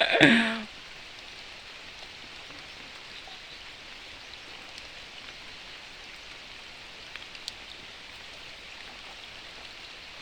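Steady rain falling, an even hiss. A short loud voice-like cry at the very start.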